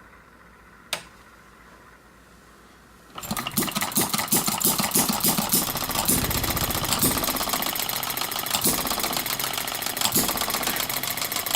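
Breisch "Little Brother" hopper-cooled hit-and-miss engine starting about three seconds in and running with rapid, steady firing. A single sharp click comes about a second in, before it starts.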